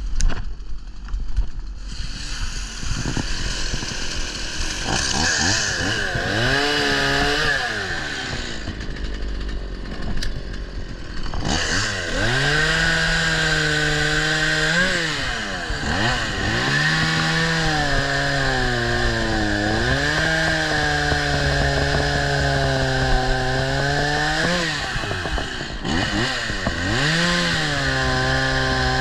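Chainsaw running at high revs, cutting through fallen wood. Its engine pitch dips and climbs back up several times, about seven in all, as the throttle is eased off and squeezed again between long stretches at full speed.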